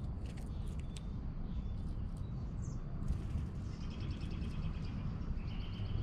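Wild songbirds calling: scattered short chirps, then a fast run of repeated high notes in the second half and another short phrase near the end, over a steady low rumble.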